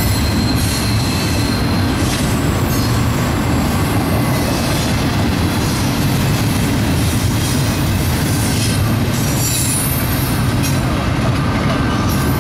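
Double-stack intermodal freight cars rolling past with a steady, loud rumble of steel wheels on rail. A high thin wheel squeal rises over it at times.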